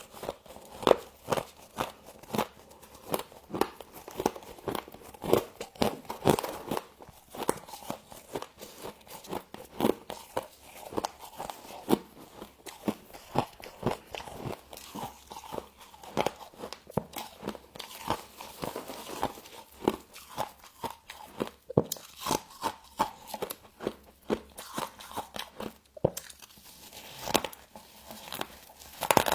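A person biting and chewing frost, with rapid, irregular crunches all the way through.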